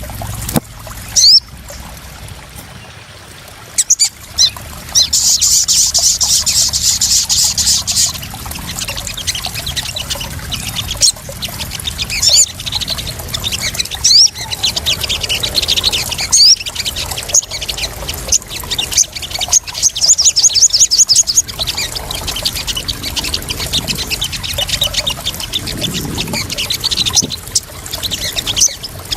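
Crimson sunbird calls, rapid high chirps and fast trills, over trickling, splashing water.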